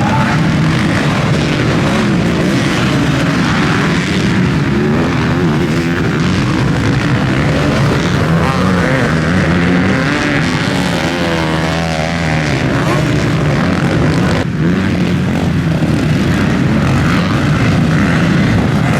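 Several motocross bike engines racing, their pitch rising and falling with throttle and gear changes as the bikes overlap.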